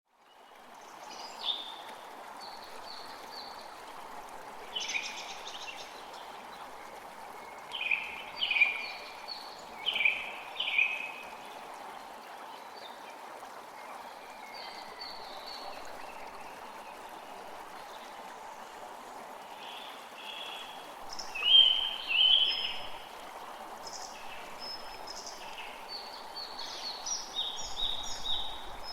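A forest creek flowing steadily, with songbirds singing short, repeated phrases over it. The birdsong comes loudest about eight to eleven seconds in and again a little after twenty seconds.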